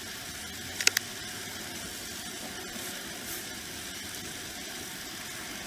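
Steady background hiss with a quick cluster of three sharp clicks about a second in.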